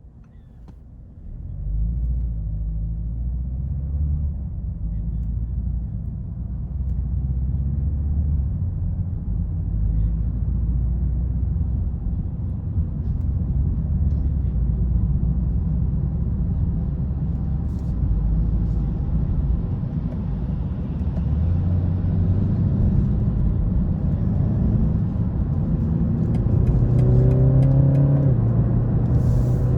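Engine and road noise of a 2020 BMW 330i's turbocharged 2.0-litre four-cylinder, pulling away about a second and a half in. The low engine note rises and drops in steps as it drives, and climbs higher near the end as the car accelerates.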